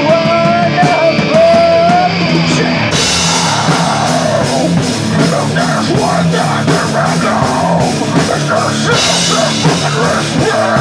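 Loud rock band playing, with drum kit and guitar. A held, wavering note rides over the band for the first two seconds, then the full band comes in with crashing cymbals about three seconds in.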